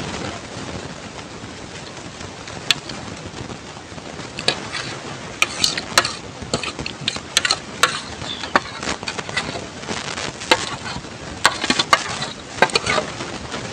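Close-up eating sounds: sharp, irregular wet clicks and smacks of chewing, thickening from about three seconds in, over a steady background hiss.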